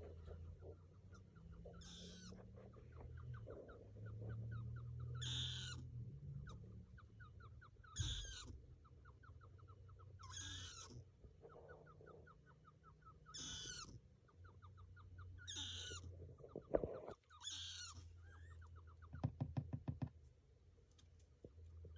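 A small animal gives short, high squeaking calls about every two to three seconds, seven in all, with quick runs of faint chirping clicks between them. A brief rapid rattle comes near the end over a low steady hum.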